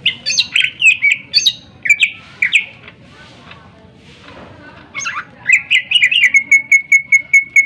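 Greater green leafbird (cucak ijo) singing loud, sharp whistled phrases with mimicked notes of other birds. Near the end it breaks into a fast run of repeated identical notes, about five a second.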